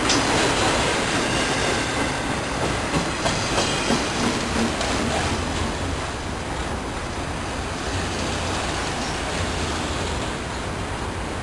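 Train rolling past, its wheels clattering over the rail joints, with a few sharper clacks in the first few seconds.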